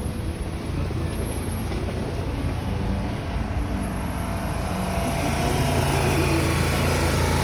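A car engine running with road noise, a steady low hum that grows a little louder about five seconds in.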